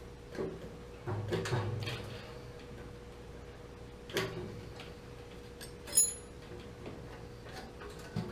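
Irregular metallic clicks and clinks from work on a gas water heater's burner assembly, with one sharper clink about six seconds in that has a brief high ring. A faint steady hum runs underneath.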